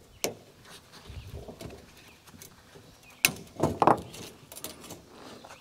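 Diagonal cutters snipping the tie wrap on a folded band sawmill blade, then the steel blade being handled. A sharp click a quarter second in, a louder snap a little over three seconds in, then a brief cluster of clinks.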